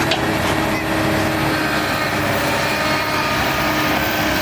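Diesel engine of heavy earthmoving machinery running steadily at a constant pitch, with a steady hum throughout.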